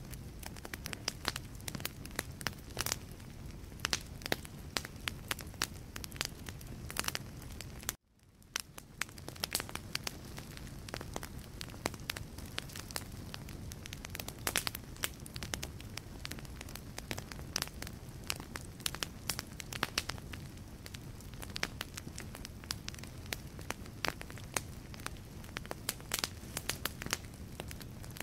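Wood burning in a fireplace: dense, irregular crackles and pops of the logs over a low steady rumble of flame. About eight seconds in, the sound cuts out abruptly and fades back in over a second or two.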